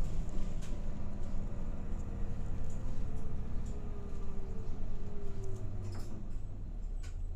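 Route bus running, heard from inside the passenger cabin: a steady engine and road rumble, with a whine that falls in pitch over a few seconds midway, and scattered light rattles and clicks.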